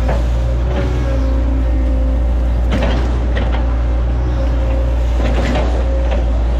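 Hitachi Zaxis 110 excavator's diesel engine running steadily under load, with a whine from the hydraulics. Several sharp knocks and cracks come about three seconds in and again near the end.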